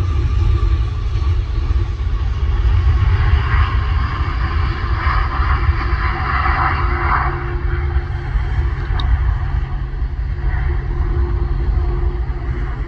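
Ryanair Boeing 737 jet airliner taking off, its engines giving a heavy, steady rumble with a faint whine that slowly falls in pitch, swelling louder in the middle as the aircraft climbs out.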